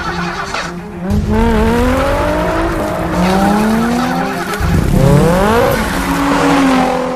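A car engine revving hard, rising in pitch three times as it climbs through the gears, with tires squealing.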